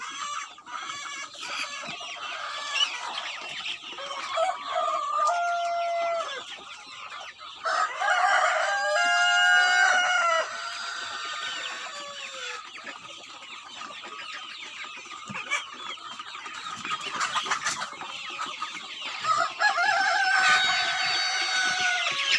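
A flock of local chickens clucking continuously, with roosters crowing over them: one long crow about eight seconds in and another near the end.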